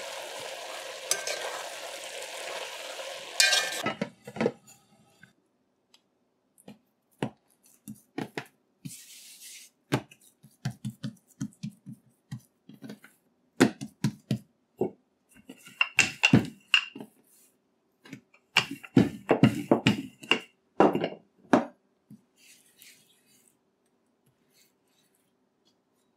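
Diced pumpkin sizzling as it fries in a pot while a spatula stirs it; the sizzle cuts off after about four seconds. Then scattered soft knocks and taps as roti dough is pressed and worked by hand on a countertop, in two busier runs near the middle and later on.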